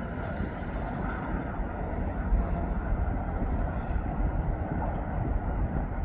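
Steady vehicle rumble of a car in motion, road and engine noise with no distinct events.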